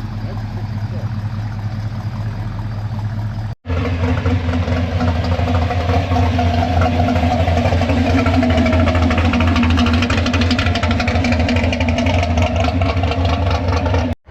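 A car engine idling, steady and even with no revving. About three and a half seconds in, the sound cuts out for an instant and comes back louder, with a rapid, even pulsing.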